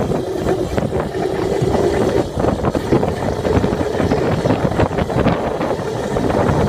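Dirt bike engine running while riding, with wind buffeting the microphone; a steady engine tone holds for about the first two seconds, then the sound turns rougher.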